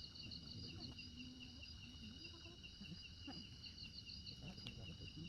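Faint insect chorus: steady high-pitched trilling, with bursts of rapid chirping near the start and again about four seconds in.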